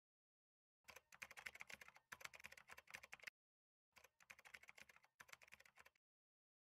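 Typing sound effect: rapid key clicks in two runs, the first about two and a half seconds long, then a short pause and a second run of about two seconds, laid over text appearing letter by letter. Faint.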